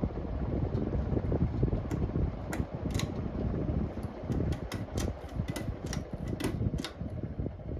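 Hampton Bay Gazebo Plus ceiling fan running, its airflow buffeting the microphone as a steady low rush, with a run of irregular light clicks in the middle.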